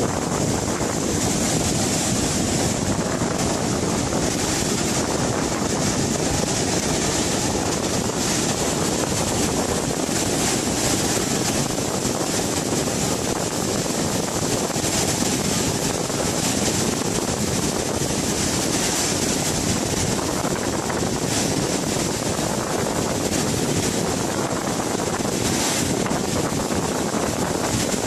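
Floodwater rushing steadily, a continuous even wash of noise without breaks.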